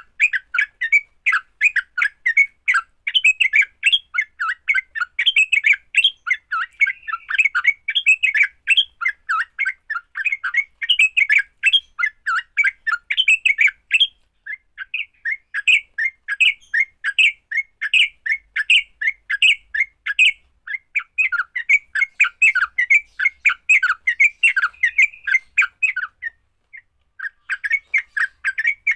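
Yellow-vented bulbuls (trucuk) giving their agitated fighting song: a dense, rapid run of sharp chattering notes, broken by short pauses about halfway through and near the end.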